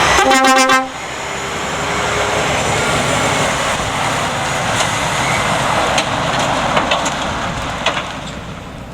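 Loaded Scania logging truck on the move: a brief pitched horn blast of under a second at the start, then the steady sound of the diesel engine and tyres, with a few sharp clicks later on.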